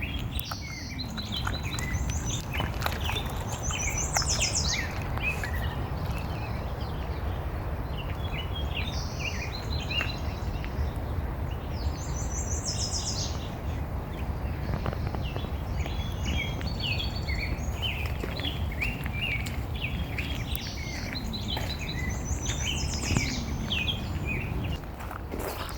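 Several songbirds chirping and calling, with a quick high trill returning about every ten seconds, over a steady low background rumble.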